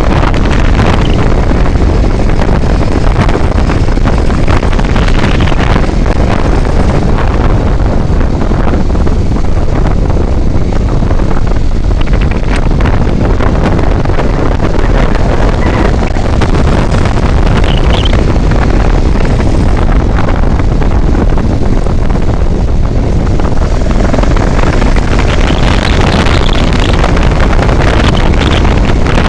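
Loud, steady wind buffeting the microphone of a vehicle moving along a road, with a low rumble underneath.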